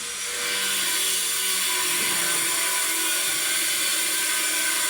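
Power tool running steadily with a high, hissing whine, getting louder about half a second in.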